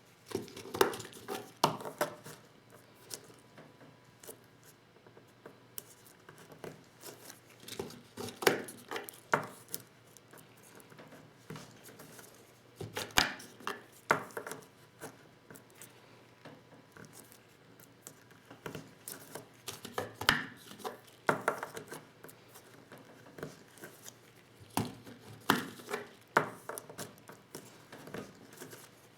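Hand-reloading 12-gauge shotgun shells with a Lee Loader kit: clusters of small knocks and clicks every five or six seconds as shells and the loader's parts are handled and struck, with light rubbing and handling noise between.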